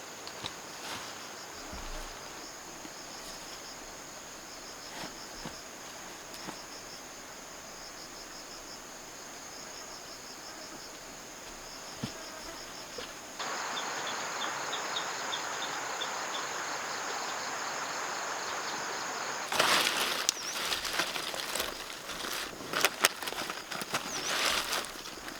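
Insects chirping in short repeated trills over a soft background hiss. Partway through this gives way to a steadier, louder insect buzz. Near the end it is overlaid by rustling and a series of sharp clicks and knocks.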